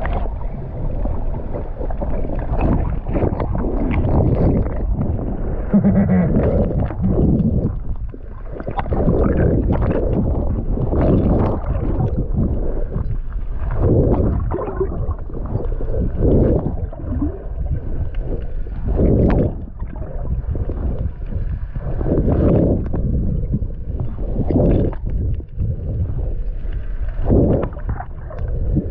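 Water sloshing and splashing close to the microphone, muffled, rising and falling in irregular surges every second or so.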